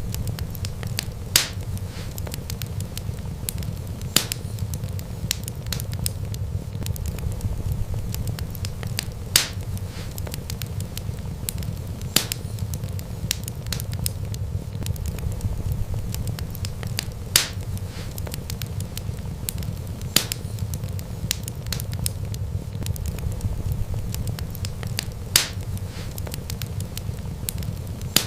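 Wood fire burning with a steady low rumble and light crackle, and a sharp pop every few seconds, about seven in all.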